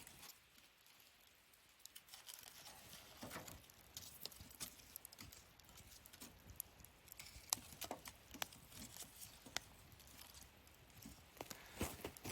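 Bonfire of burning wood crackling quietly, with scattered sharp pops and snaps at irregular times.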